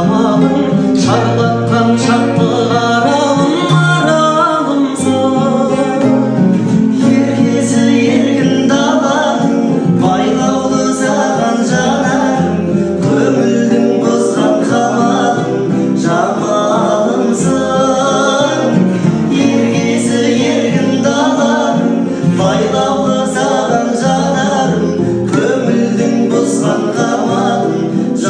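Kazakh-language song: a male voice singing over guitar and instrumental backing.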